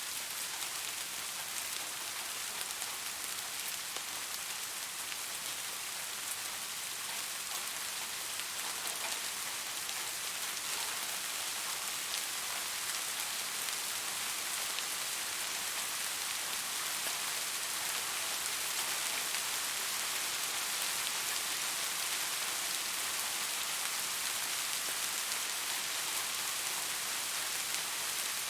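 Steady rain falling, a dense hiss of many small drops pattering on a surface.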